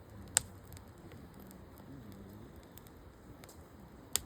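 Wood campfire crackling, with a sharp pop about half a second in and another near the end.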